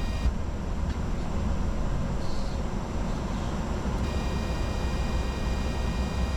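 Steady cockpit noise of a Bombardier Challenger 605 in descent: airflow and engine rumble, heaviest in the low end. A faint set of high steady tones drops out about a quarter second in and comes back about four seconds in.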